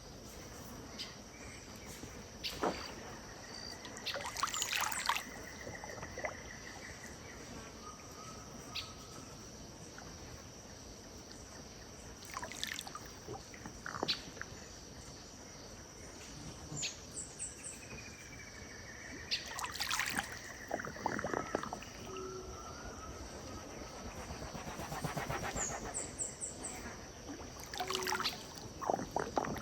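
Several birds calling over gentle river water lapping and splashing, with short trilled phrases twice and quick high chirps. A steady high-pitched insect drone runs underneath.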